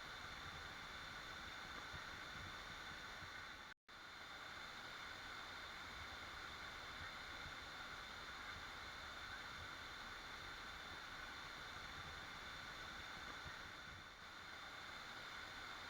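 Waterfall, water falling and rushing in a steady, even hiss. About four seconds in the sound drops out completely for a split second, then resumes unchanged.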